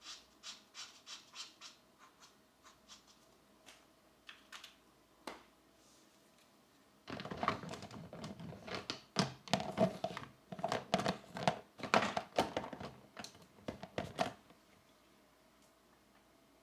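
Pencil strokes scratching on a colouring book page: quick short strokes, about four a second at first, thinning out, then after a short pause a louder, denser run of scratching for about seven seconds that stops near the end.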